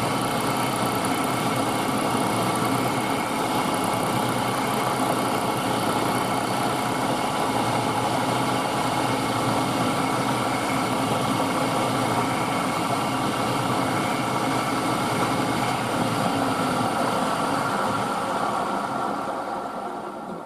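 Milling machine running steadily, taking a light cut in a brass bracket; the spindle begins to wind down near the end.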